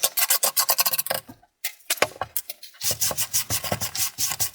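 Quick, repeated scraping strokes as caked-on dust is scraped off a desktop CPU cooling fan, pausing briefly twice.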